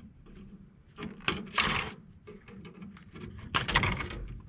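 Metal scrap parts being handled and knocked together while an air-conditioning unit is stripped: sharp clicks and clanks, with two louder clattering spells about a second and a half in and near the end.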